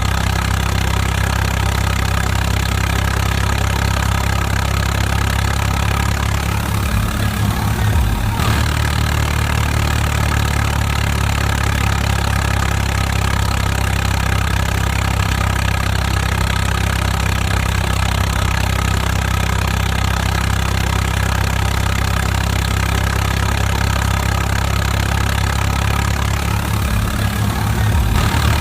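Tractor engine running steadily, its note shifting briefly about seven seconds in and again near the end.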